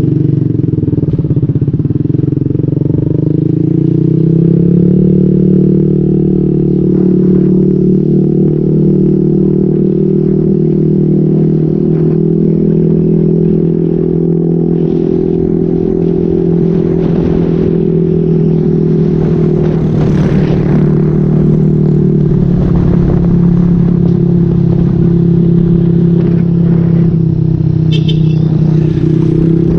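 Motorcycle engine running through an SC-Project aftermarket exhaust with a modified elbow pipe while riding. The exhaust note rises a few seconds in, holds steady, then eases slightly later on.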